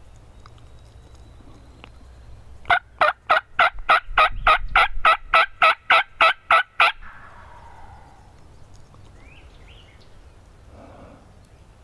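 Turkey yelping: a loud series of about fifteen evenly spaced notes, about three and a half a second, lasting some four seconds. A few faint chirps follow near the end.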